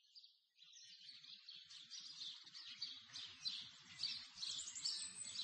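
Birds chirping faintly, fading in from silence and getting gradually louder.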